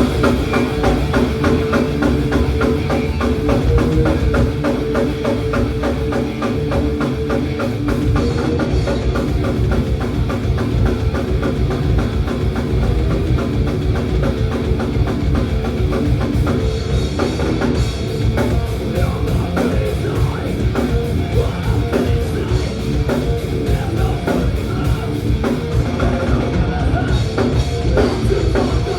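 Thrash metal band playing live: fast, driving drum kit with distorted electric guitars and bass, kicking in at full volume.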